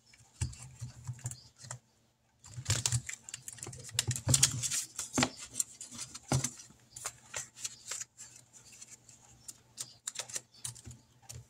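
Paper money and cash-stuffing supplies being handled on a tabletop: a run of irregular light clicks and taps, with a short pause about two seconds in.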